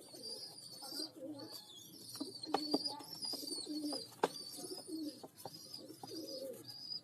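Young pigeon squabs calling continuously with thin high squeaks and low coo-like calls, the begging of chicks at feeding. A few sharp clicks stand out, the loudest about halfway through.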